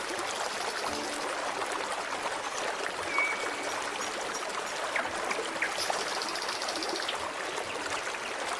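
Forest stream flowing steadily, with birds calling over it: a short high whistle about three seconds in and a high rapid trill lasting about a second near the end.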